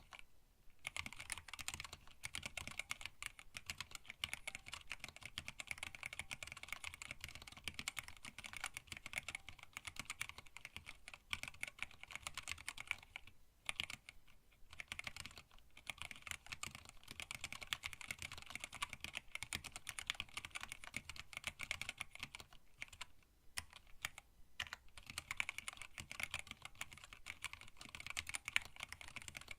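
Continuous fast typing on a custom mechanical keyboard with Tealios linear switches and PBT keycaps in an acrylic case, a dense run of key clicks broken by a few short pauses.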